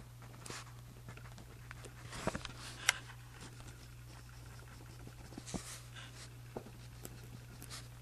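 Handwriting on journal paper: soft scratching strokes, a few louder ones about two to three seconds in and again around five and a half seconds, over a steady low hum.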